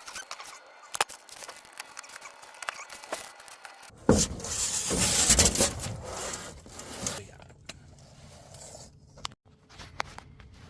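A few light clicks, then about four seconds in a loud scraping rub lasting about three seconds: a fiberglass underbelly panel being slid down against the camper's underside.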